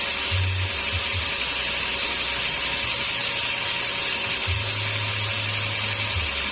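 Sawmill saw machinery running steadily with an even, high hiss. A low hum steps on and off underneath, loudest from about four and a half to six seconds in.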